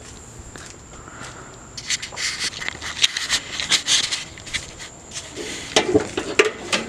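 Irregular rubbing, scraping and clicking sounds of handling and movement, heavier near the end.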